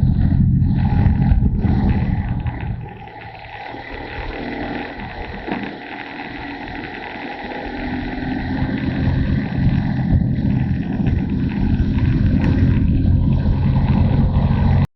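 Motorcycle riding with a deep rumble of wind on the camera microphone. About three seconds in the rumble falls away for several seconds, then builds back up.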